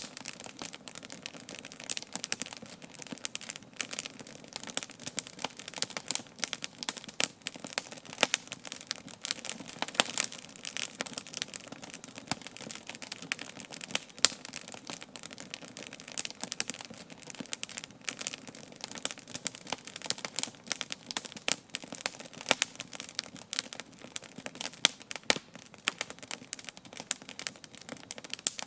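Wood campfire burning, crackling and popping continuously with many irregular sharp snaps over a soft low rush of the flames.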